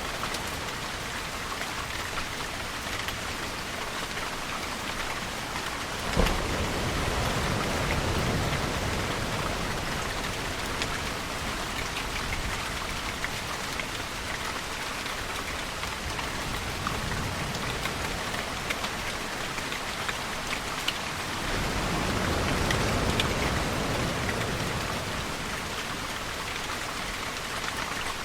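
Steady heavy rain falling, with a sharp crack of thunder about six seconds in that trails off into a low rumble, and another low rumble swelling for a few seconds near the end.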